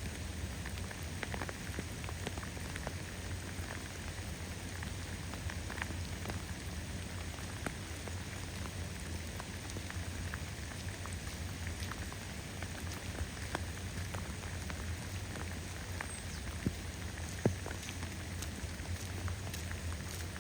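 Steady rain falling, with many separate drops ticking close to the microphone. There is one sharper knock about seventeen seconds in.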